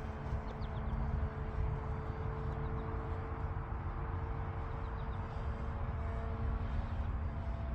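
Electric motor and propeller of a radio-controlled Seagull Models Super Decathlon in flight, a steady hum that dips briefly near the end. Wind rumbles on the microphone underneath.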